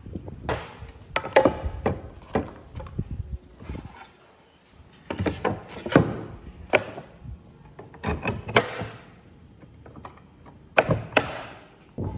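Clusters of sharp wooden knocks and thunks, several in quick succession each time, with short pauses between the groups.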